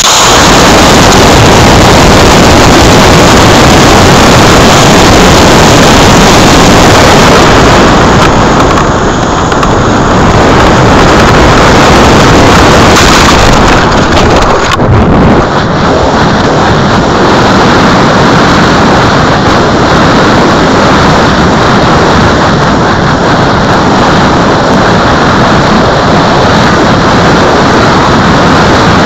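Loud, distorted rushing of air over the microphone of a keychain camera riding on a model rocket in flight.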